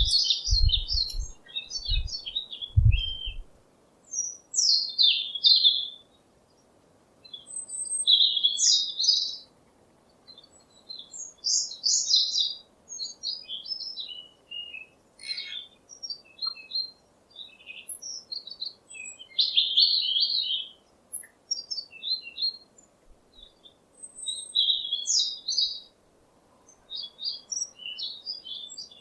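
Small songbirds chirping and singing in short, quick phrases, one burst every second or two with brief pauses between. A few low thumps sound in the first few seconds.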